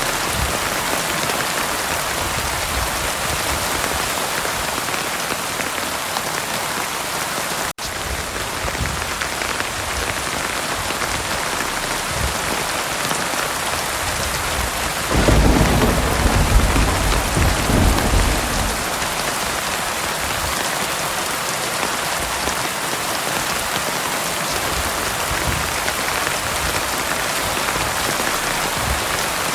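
Heavy rain falling steadily. About halfway through, a roll of thunder starts suddenly and rumbles low for about four seconds before fading back into the rain. The sound drops out for an instant about a quarter of the way in.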